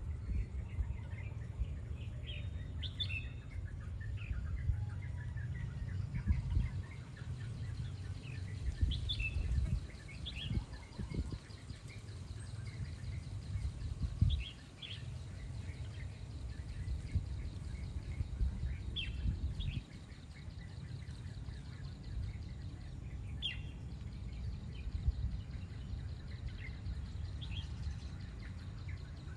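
Red-whiskered bulbul singing short, bright phrases a few seconds apart, over a steady low rumble.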